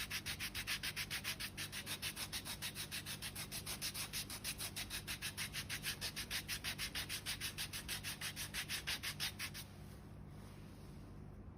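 Foot file rasping back and forth across the hard skin of a sole in quick, even strokes, about five or six a second, stopping abruptly near the end.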